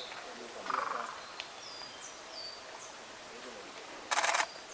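A camera shutter firing a rapid burst of clicks for about a third of a second near the end, the loudest sound here. Faint, high, downslurred bird notes repeat in the background.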